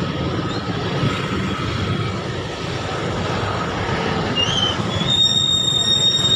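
Steady rumble of a moving road vehicle with street traffic. About five seconds in, a loud, steady, high-pitched squeal joins it.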